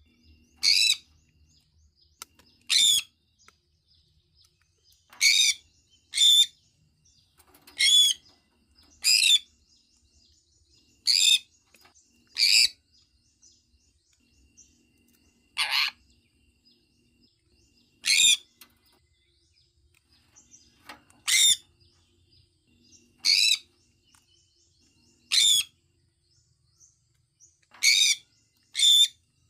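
Sun conure calling: short, high-pitched calls repeated every second or two, some coming in quick pairs.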